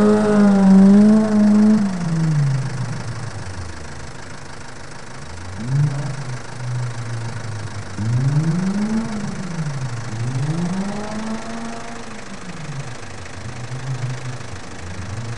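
Honda Civic Shuttle's D16A6 1.6-litre four-cylinder engine on an exhaust with no muffler, only the catalytic converter. It holds high revs at first, then drops away, then revs up and back down several times as the car is driven.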